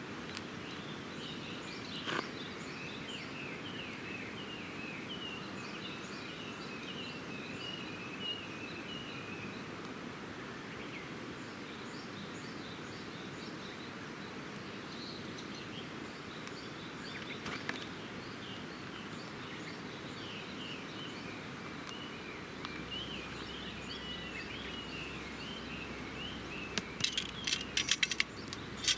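Wood campfire crackling, with a few single sharp pops and a quick run of crackles near the end, over a steady rushing hiss. Birds chirp in long runs of short repeated notes.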